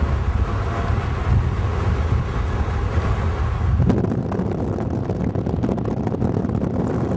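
A moving car's steady low road and engine rumble. About four seconds in, wind starts buffeting the microphone.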